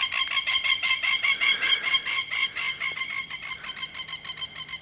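Plover calling: a loud, rapid run of sharp repeated notes that trails off near the end.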